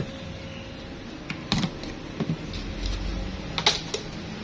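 Light handling clicks and knocks, a few scattered ones, the sharpest about a third of the way in and again near the end.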